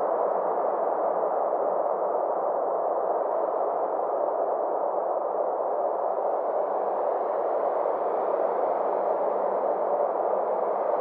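Steady synthesized space-ambience drone: an even, muffled rushing noise with no beat, its brighter top slowly swelling and fading back over the last few seconds.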